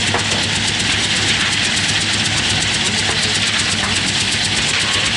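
Dense, continuous chattering of a large flock of birds roosting together in a tree, over a steady low drone.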